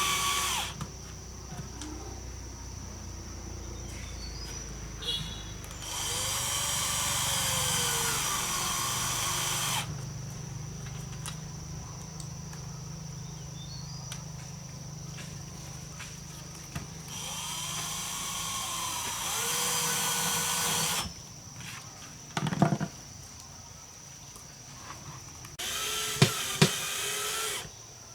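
A handheld power tool runs in bursts of about three to four seconds, its motor pitch rising and falling as it starts and stops. A short knock comes between the last two bursts, and sharp clicks come during the last one.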